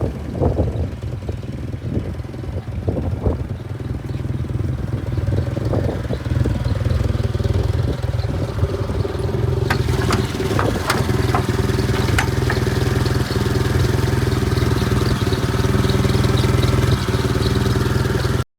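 TCM FG10 forklift's combustion engine running steadily at idle, with a few sharp clacks about ten seconds in; the sound stops abruptly near the end.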